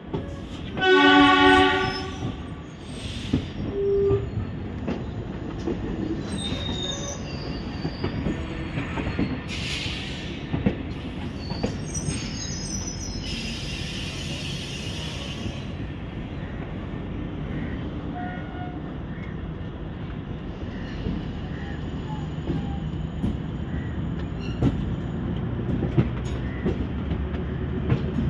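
Diesel multiple unit train departing, heard from aboard: a loud horn blast about a second in, then a steady running rumble as it rolls over the yard points, with scattered clicks of wheels over rail joints. There is a hiss about halfway through.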